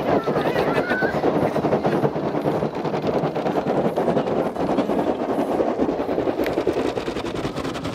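Automatic car wash machinery working over the car, heard from inside the cabin: a steady, dense, rapid rattling and drumming of water and brushes on the body.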